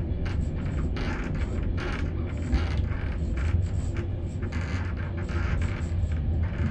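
Passenger train coach heard from inside as it rolls into a station: a steady low rumble with irregular rattling and clatter from the wheels and the car body.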